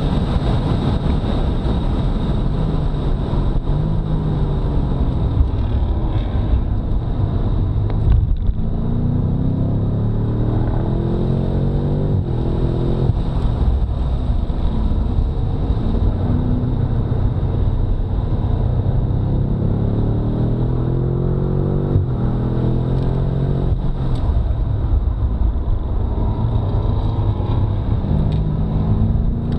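BMW F90 M5's twin-turbo 4.4-litre V8 running hard at speed. Its pitch climbs and then drops sharply several times as it shifts through the gears.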